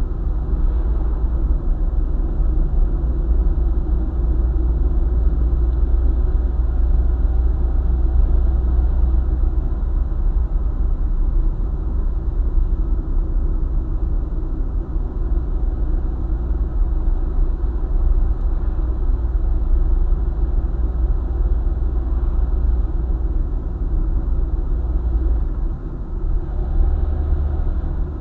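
Car travelling at highway speed: a steady low rumble of tyre, road and engine noise.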